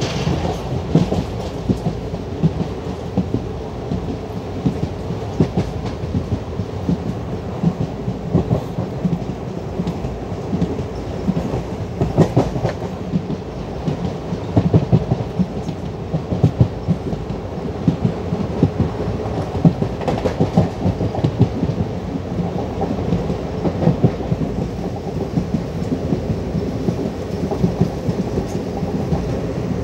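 Passenger train running at speed, heard from an open coach door: a steady rumble of the coaches with irregular clicks and knocks from the wheels on the rails.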